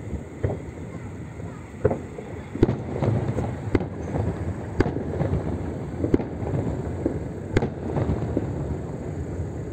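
Aerial firework shells bursting overhead: a series of about eight sharp bangs, roughly one a second, over a continuous low rumble.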